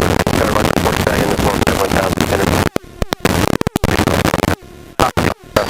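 Helicopter cabin noise: a steady engine and rotor drone with rushing air, heard through the headset intercom. It cuts out abruptly twice, for about half a second and then nearly a second.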